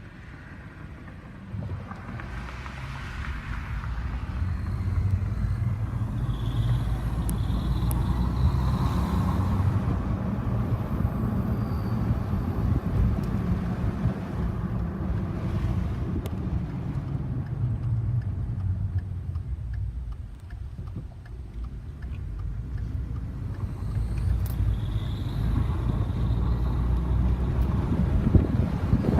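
Ford F-150's 3.5L EcoBoost twin-turbo V6 running. The engine sound grows louder about two seconds in, eases off about two-thirds of the way through, then builds again, with a few faint high chirps above it. These chirps are the noise the owner traces to the passenger-side turbo.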